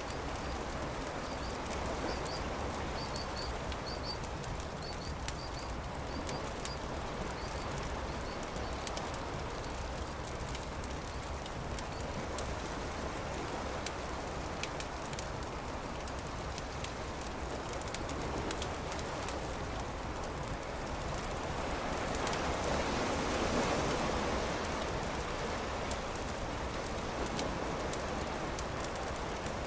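Campfire crackling over a steady wash of surf, with one wave swelling louder about two-thirds of the way through. A bird chirps a few times in the first several seconds.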